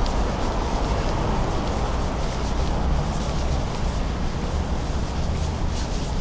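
Steady wind rumble on a bicycle-mounted camera's microphone while riding, with a haze of road noise.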